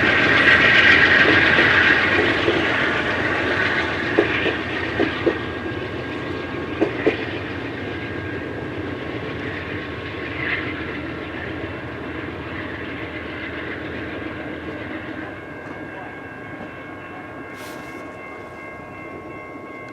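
A train rolling past on the rails, its wheels clicking over the rail joints several times, the sound fading steadily as it moves away.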